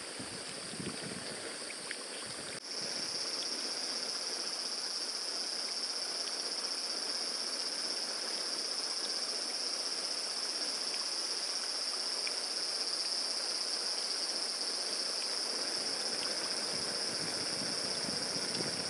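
Forest insects droning in one steady, high-pitched, unbroken tone that comes in abruptly a few seconds in, over a constant background hiss.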